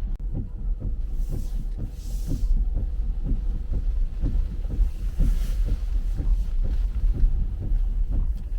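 Cabin road noise from a Tesla Model Y rolling on Michelin X-Ice winter tyres on a snowy road: a steady low rumble with a run of soft thumps at about three a second. There are two swells of hiss, about a second in and about five seconds in.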